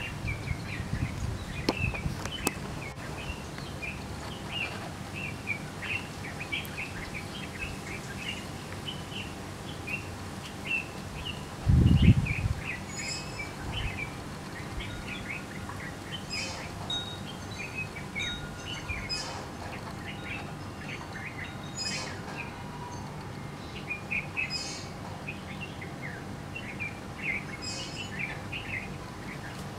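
Small birds chirping steadily, many short calls overlapping, with higher, sharper calls joining in from about halfway. A brief low thump about twelve seconds in is the loudest sound.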